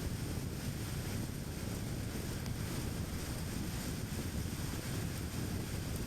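Car driving along at steady speed: an even low rumble of tyre and road noise with a wind hiss over it.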